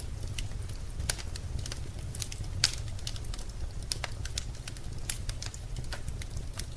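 Wood fire crackling in a fireplace: irregular sharp pops and snaps, a few louder ones about a second in and midway, over a steady low rumble.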